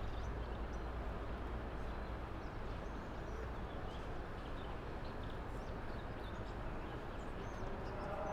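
Steady outdoor street ambience: a continuous low hum of background noise with faint short high chirps scattered through it.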